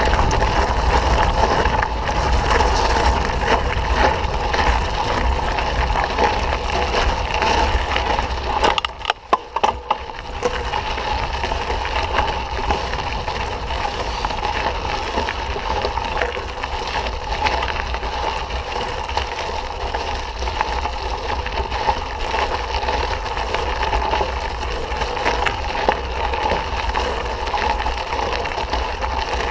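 Mountain bike riding on a dirt trail: steady tyre and rattle noise with heavy wind rumble on the microphone. About nine seconds in it briefly drops away with a few sharp clicks, then carries on.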